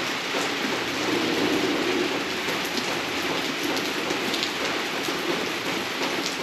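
Steady rain falling, with scattered single drops striking close by.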